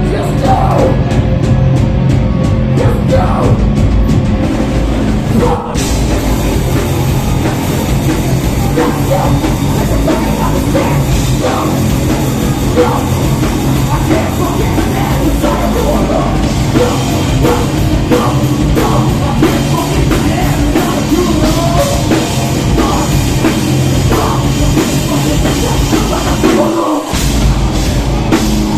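A live metalcore band playing loudly with a heavy metal sound of guitars, bass and drum kit. The music cuts out very briefly about six seconds in, and the low end drops out for a moment near the end.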